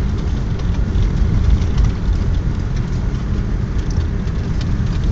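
Car driving on a snowy mountain road, heard from inside the cabin: a steady low rumble of engine and tyres, with a few faint ticks.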